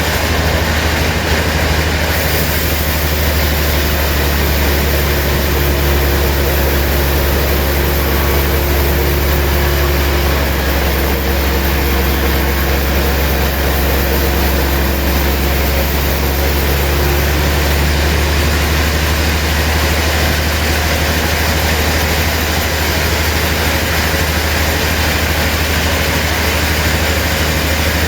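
Sawmill machinery running, a loud, steady drone with no breaks.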